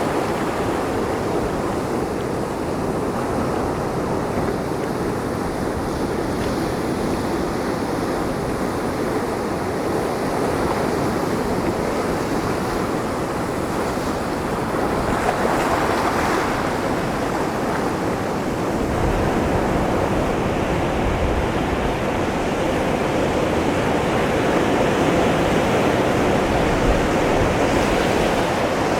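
Ocean surf breaking against a rocky shoreline, a continuous wash of waves with one louder, brighter surge about halfway through. Wind buffets the microphone with a low rumble in the second half.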